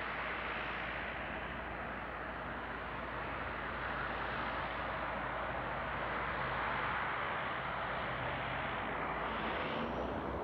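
Airliner's engines at takeoff power during the departure roll, a steady rushing noise, with a faint rising whine near the end.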